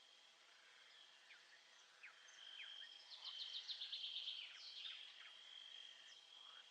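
Faint nature ambience: a steady high insect-like trill, with birds giving short downward-sliding chirps. In the middle comes a quick run of bird notes, about eight a second.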